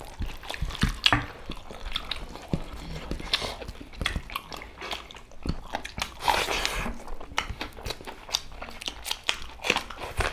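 Close-miked chewing and mouth sounds of people eating rice and curry by hand, with irregular small clicks, wet smacks and crunches.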